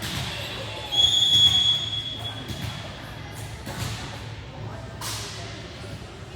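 Referee's whistle blown in one steady blast of about a second and a half, about a second in, followed by a few thumps in the echoing gym.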